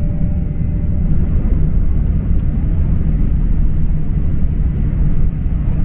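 Steady low rumble of a Sanyo Shinkansen train running, heard inside the passenger car.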